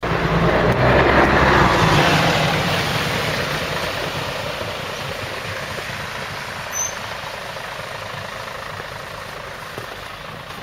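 Scania L113 CRL single-deck bus, its diesel engine and road noise loudest in the first two seconds, then fading steadily as it draws away. A small click about seven seconds in.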